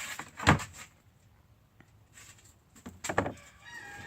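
A door being pushed and bumped by a small child: a sharp knock about half a second in, then more knocking about three seconds in, as it fails to open.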